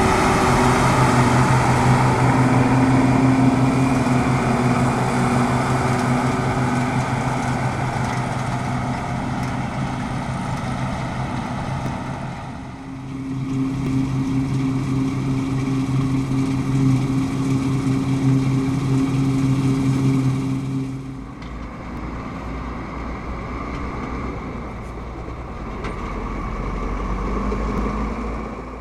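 Deutz-Fahr M36.10 combine harvester running under load, a steady engine drone. It fades a little, dips about twelve seconds in and comes back. About twenty-one seconds in it drops away, leaving a lower, rougher rumble.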